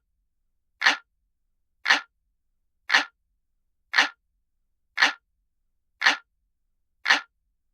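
Looped analog-clock tick sound: one short, sharp tick about once a second, each tick alike, with silence in between.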